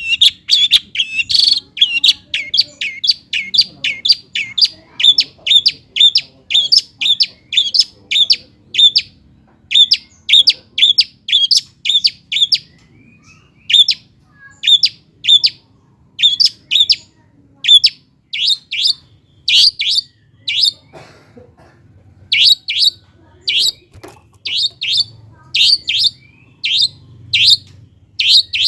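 Long-tailed shrike (cendet) calling a loud, fast series of short, sharp notes, about two or three a second, broken by a couple of brief pauses. It is played as a lure call to provoke a kept shrike into singing.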